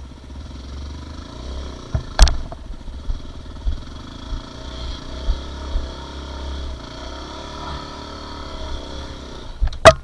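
Dirt bike engine running at low, fairly steady revs, with a sharp knock about two seconds in and a louder one near the end.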